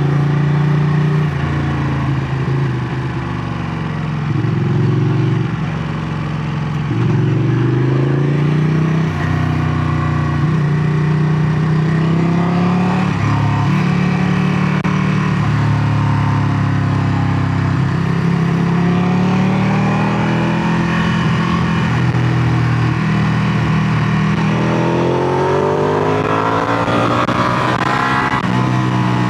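Ducati Panigale 959's 955 cc Superquadro L-twin running through its exhaust, its pitch repeatedly rising and falling with the throttle. In the last few seconds it climbs steadily in pitch, then drops off sharply near the end.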